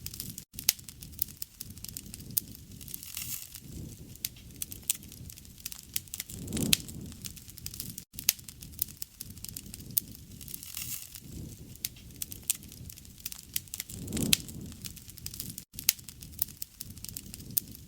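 Wood fire crackling, with many sharp pops and a low rush of flames that swells about every four seconds.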